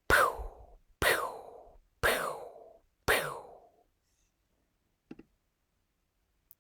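Four identical percussive count-in beats from the recording software, evenly spaced about a second apart, each with a short falling tone and quick decay, counting in before the microphone recording starts.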